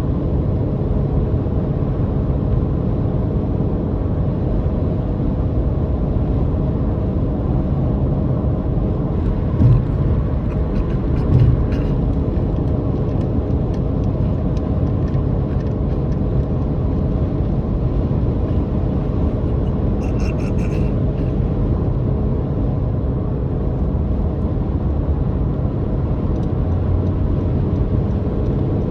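Car engine droning steadily under a low road rumble, with two short thumps about ten and eleven seconds in and a brief higher-pitched sound a little past the middle.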